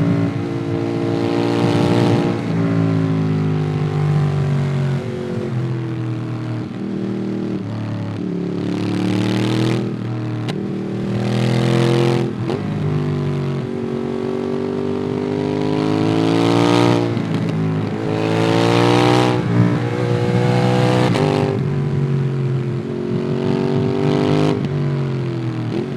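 Onboard sound of a Ducati Monster 821's 821 cc L-twin through a QD Twin Gunshot exhaust, accelerating and backing off again and again, its pitch climbing and dropping several times. A rush of wind comes in at the higher-revving peaks.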